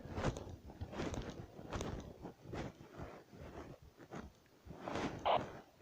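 Footsteps crunching through dry undergrowth and branches at a steady walking pace, about one step a second.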